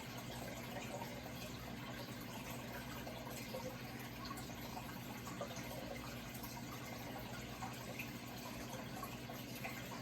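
Running water trickling and splashing steadily, with small drips and splashes through it and a low steady hum underneath.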